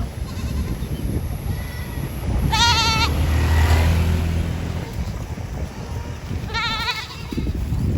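Animal bleating: two short, high, wavering calls about four seconds apart, with a low rumble between them.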